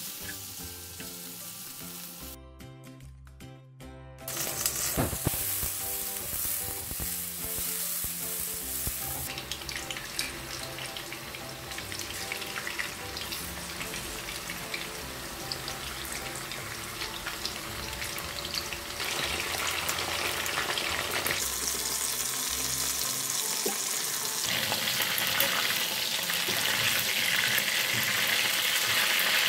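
Food sizzling in hot oil in a nonstick wok: strips of bell pepper stir-fried with a spatula, then pieces of marinated chicken frying in bubbling oil. The sizzle gets louder about four seconds in and again near the end, with light background music underneath.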